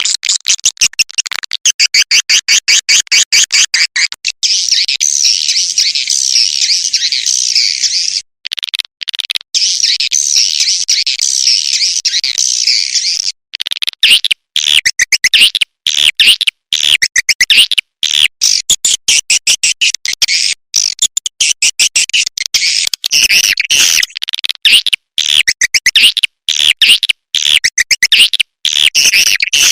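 Swiftlet lure recording of the kind played to draw swiftlets into a nesting house. It opens with rapid buzzing clicks for a few seconds, moves into dense, continuous high twittering with a short break, and from about halfway through becomes a fast run of short, sharp chirps.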